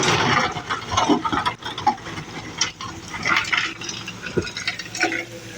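Irregular clattering and clinking of small hard objects, with a few sharp knocks, over a faint steady hum.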